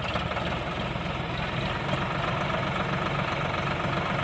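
Eicher 650 tractor's diesel engine running steadily at a low, even speed, with a rapid regular firing beat.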